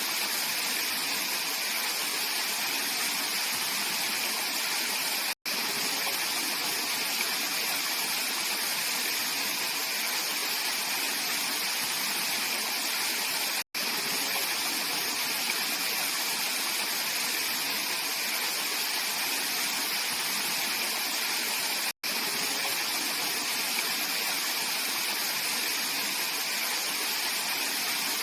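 Mountain valley stream flowing: a steady, bright hiss of running water. It cuts out to silence for an instant three times, about eight seconds apart.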